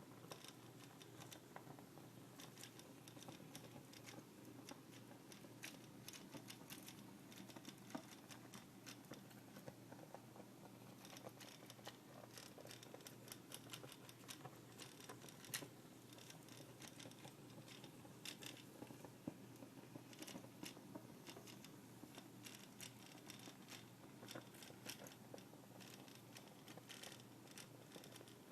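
Coil-type putt-putt steam engine on a toy boat, with pieces of aluminium can rattling against the pulsing coil: a quiet, fast, irregular ticking that goes on without a break.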